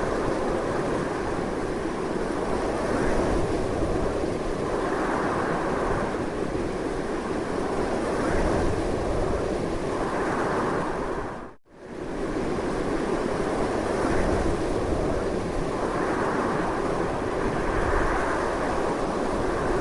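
Strong, continuous wind blowing with gusts that swell and ease every few seconds. About halfway through, the sound dips sharply to near silence for a split second and then comes straight back.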